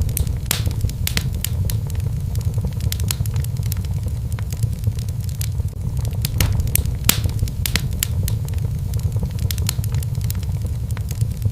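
Wood fire burning in a fireplace: a steady low rumble of the flames with irregular sharp pops and snaps of burning logs.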